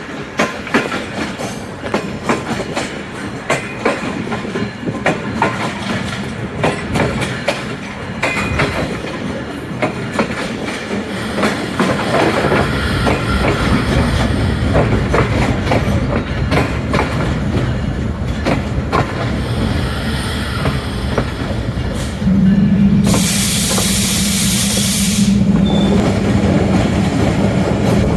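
Passenger train running on the track, its wheels clicking over rail joints, with the rumble growing louder about halfway through. About 22 seconds in, a steady low tone sets in and holds, joined for a couple of seconds by a loud hiss.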